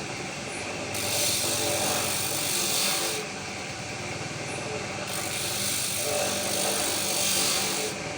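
Wooden bird-cage parts being rubbed or sanded: two long, even rasping strokes of two to three seconds each, over a steady low hum.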